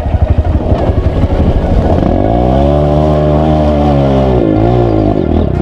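Off-road motorcycle engine chugging at low revs, then revved up about two seconds in, held high for a couple of seconds, and let back down near the end.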